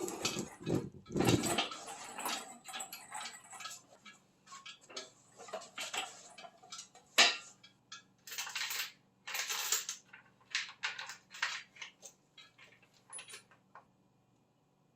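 Metal tools and parts clinking and rattling in irregular bursts, with one sharp clank about seven seconds in.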